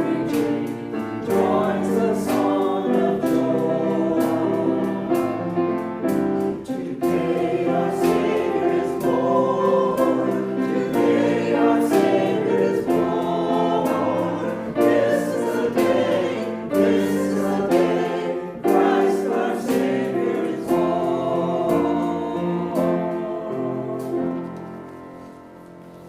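Choir singing a sacred piece, fading out near the end.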